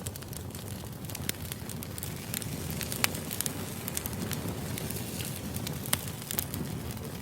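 Firewood burning: a steady low rumble of the fire with irregular sharp crackles and pops, a louder pop about three seconds in and another near six seconds.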